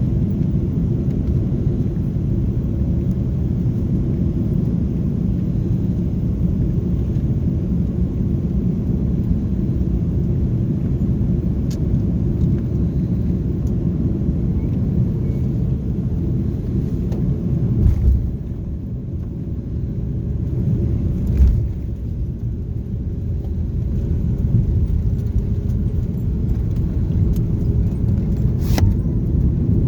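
Steady low rumble in the cabin of an Airbus A330-300 rolling on the ground after landing, with a thump about 18 seconds in and another a few seconds later; the rumble eases after the first thump and then slowly builds again.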